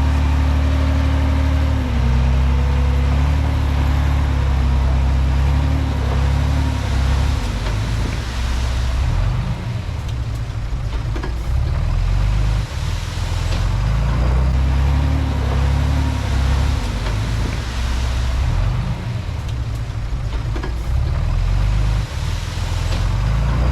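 Komatsu D31P bulldozer's diesel engine running under working load, its low note stepping up and down, with a few surges of broader clattering noise from the machine at work.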